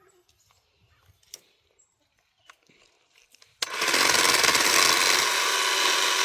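Worx 10-inch battery-powered electric chainsaw cutting into a redwood limb. After about three and a half seconds of quiet with a few small clicks, it starts suddenly and runs steadily, loud, with a steady motor whine through the chain noise.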